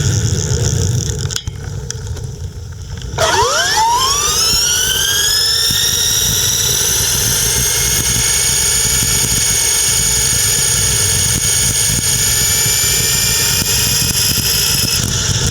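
Electric bicycle's 600 W geared hub motor whining as it accelerates: about three seconds in, the pitch climbs quickly, then levels off into a steady high whine held to the end. A low rumbling noise runs underneath.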